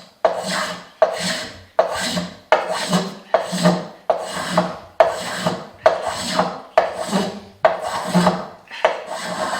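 Small antique curved metal hand plane, like a spokeshave, cutting into sawn wood in repeated strokes, a little more than one a second. Each stroke starts sharply and fades as the shaving is taken off.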